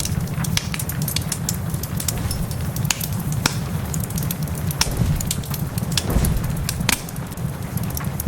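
Wood fire crackling with frequent, irregular sharp pops, over steady rain and a low, even rumble.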